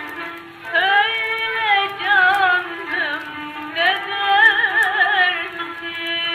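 Old recording of Turkish art music (Türk sanat müziği) on a gramophone: a singer's wavering, vibrato-laden phrases entering about a second in and again near four seconds, over held instrumental notes, with a thin, muffled old-record sound and light crackling clicks.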